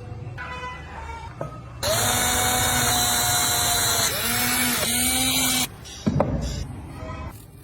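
A handheld electric power tool runs for about four seconds, its motor pitch sagging and recovering twice under load, then stops. Quieter ticks and handling knocks come before it, and a sharp knock comes just after.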